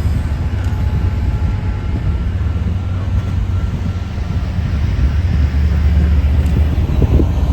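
Diesel-hauled train passing with a steady low engine rumble that grows a little louder in the second half.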